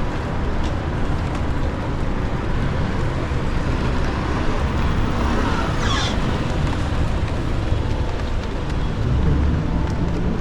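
Steady outdoor street noise of passing road traffic with a heavy low rumble. About five to six seconds in comes a brief sound that rises and falls.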